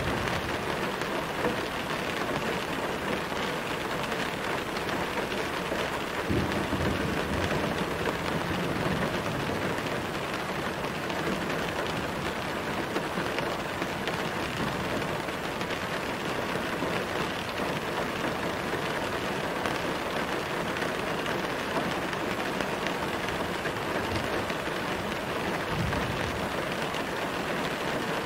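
Steady rain, an even hiss of falling drops, with two brief low rumbles about six seconds in and near the end.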